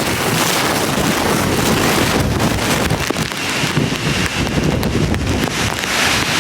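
Hurricane-force wind gusting, with rain, buffeting the microphone in loud, uneven surges.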